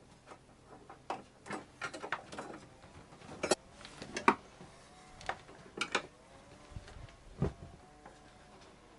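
Scattered clicks, taps and knocks of an electrical outlet being pushed into its wall box and fitted by hand, plastic and wiring knocking as it resists going in; a low thump about seven and a half seconds in.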